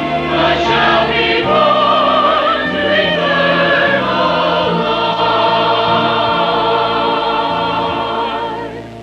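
Church chancel choir singing in parts over instrumental accompaniment, holding long notes. Near the end the voices stop and the accompaniment carries on softly.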